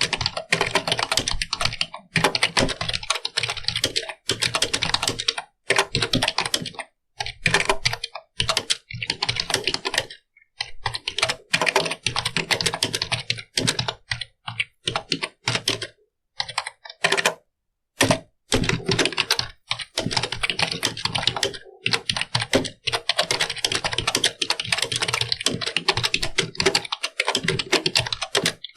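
Computer keyboard being typed on fast, dense runs of key clicks broken now and then by short pauses.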